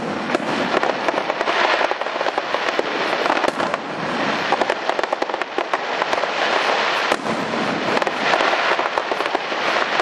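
Aerial fireworks going off overhead one after another, a dense, loud crackling of many sharp pops and bursts from crackling-star shells.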